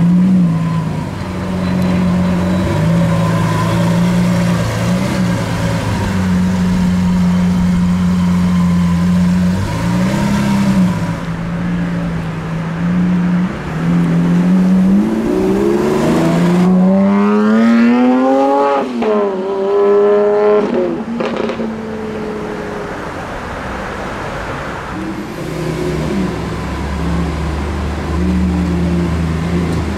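Lamborghini Sián FKP 37's V12 idling, with a short rev about ten seconds in. Then a hard acceleration, the engine pitch climbing steeply through a couple of upshifts before fading away. Near the end a V12 idles again.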